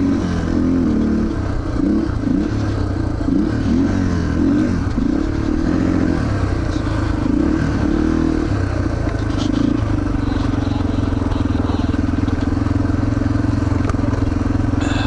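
Yamaha TTR230's single-cylinder four-stroke engine running after a bump start, its revs rising and falling unevenly for about the first ten seconds, then holding steady. The bike is running poorly, which the owner traces to a weak battery.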